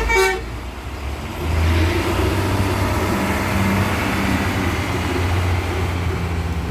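A short horn toot at the very start, then a bus's diesel engine running with a low, steady drone that gets louder about a second and a half in.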